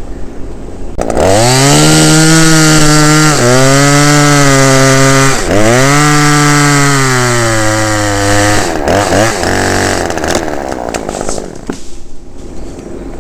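Two-stroke chainsaw throttled up to full revs about a second in and running loud and high-pitched, its pitch dipping briefly twice. Near nine seconds it drops off throttle and runs down toward a rough idle.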